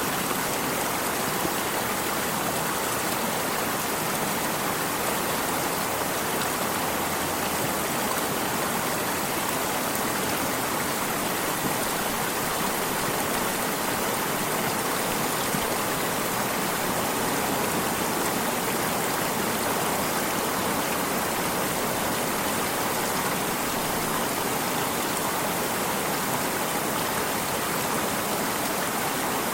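Stream water running steadily, a continuous even rush with no breaks.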